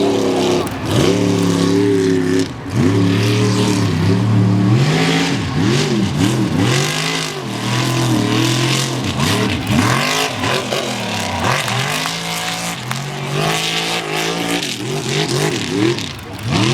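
Mega truck's big engine revved hard at wide open throttle, its pitch climbing and dropping in quick repeated sweeps as the driver works the throttle through the mud.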